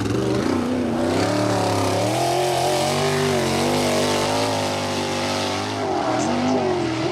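Non-wing sprint car engine at racing speed on a qualifying lap, its pitch rising and falling as the driver goes on and off the throttle, with a dip and rise again near the end.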